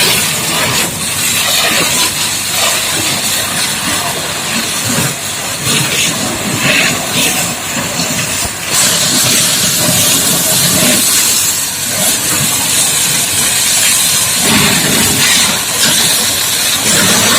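High-pressure water jet from a booster pump spraying a dump truck: a loud, steady hissing spray.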